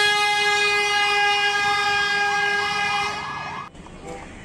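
Toy fire rescue van's electronic siren sounding: a steady high tone with a fast repeating warble over it, stopping after about three and a half seconds.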